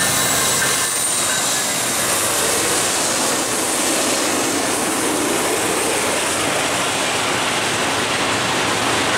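A freight train passing at speed on the rails: the GE ES44DC and Dash 9-44CW diesel-electric locomotives go by running in the first few seconds, then the steady noise of gondola cars rolling past.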